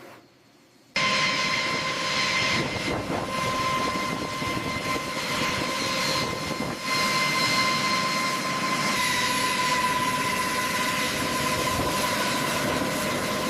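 Aircraft turbine engine running steadily at high power: a loud rush with a steady high whine, cutting in suddenly about a second in.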